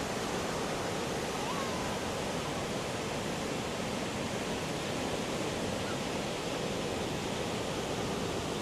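Big ocean surf from a typhoon swell breaking along a beach: a steady, even rush of noise with no single wave standing out. A faint short chirp sounds about one and a half seconds in.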